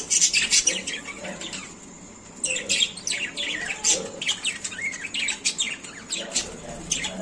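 Small pet parrots kept as love birds chirping in quick, high-pitched calls, with a short lull about two seconds in before the chirping starts up again.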